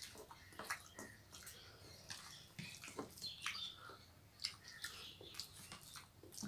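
People eating soft pulao with their fingers: faint wet chewing and mouth smacks, with small irregular clicks several times a second.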